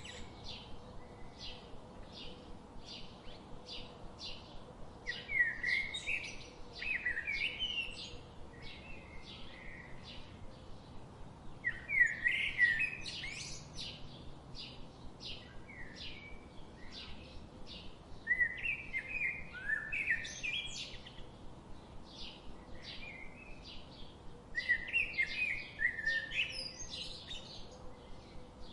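Songbirds chirping: a steady run of short, high chips about twice a second, with a louder warbled song phrase breaking in roughly every six seconds.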